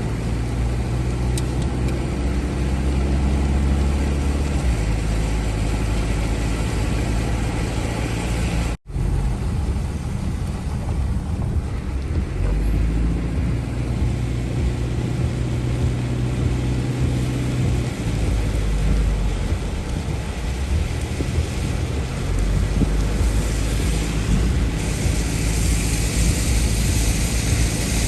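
Car engine and road noise while driving, the low engine note shifting up and down in steps, with a hiss that grows stronger near the end. The sound drops out for a moment about nine seconds in.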